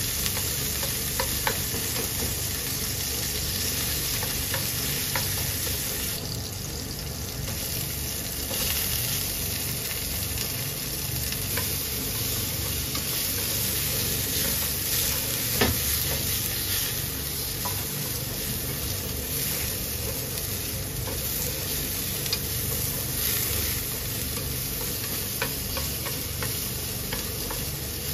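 Pork slices and eggplant chunks sizzling in oil in a non-stick frying pan while being stirred and turned with tongs. The sizzle is steady, with a few sharp clicks here and there.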